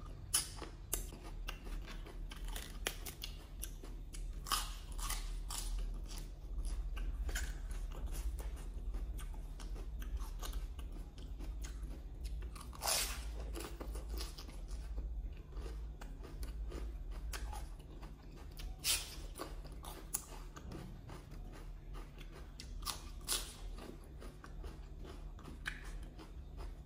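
Close-miked chewing and crunching of spicy Thai green papaya salad (som tam) with raw lettuce leaves, with irregular sharp crisp crunches among steadier chewing.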